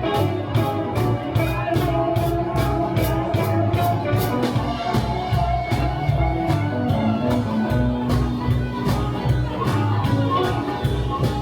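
Live band playing a blues-rock number, with drums keeping a steady beat at about two or three hits a second under bass and guitar.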